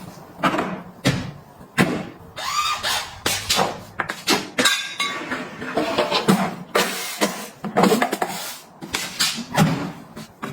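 Items being handled and set down while restocking: an irregular run of sharp taps, clicks and knocks, with a few brief glassy clinks.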